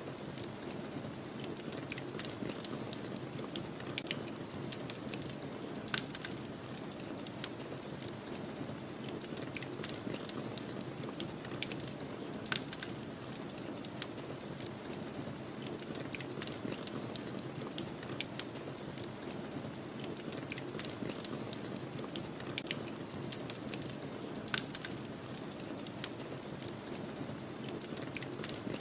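Wood fire crackling, with irregular sharp pops and snaps over a steady low rush of snowstorm wind.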